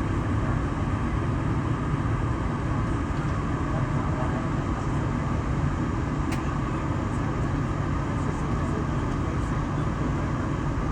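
Steady low rumble of an Airbus A380 cabin on the ground after landing, with one sharp click about six seconds in.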